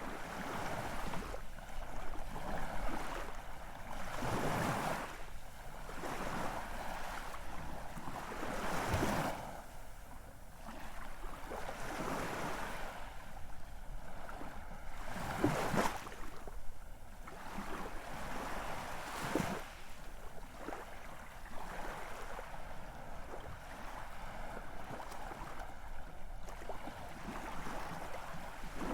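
Ocean waves washing in and breaking, the rush of surf swelling and easing every few seconds.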